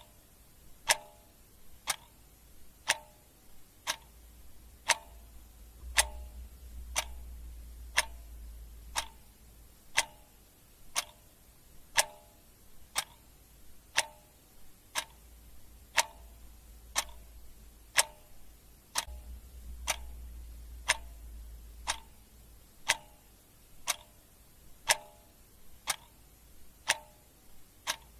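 Clock ticking steadily, one tick a second, the ticks alternating slightly stronger and weaker in a tick-tock pattern.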